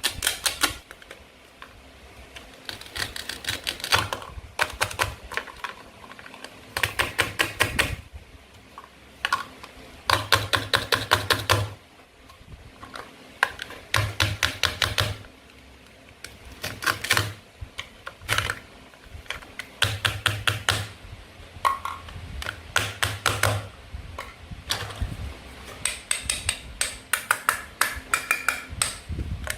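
Toy play food being cut apart with a toy knife: bursts of rapid clicking, each about a second long, repeated every couple of seconds.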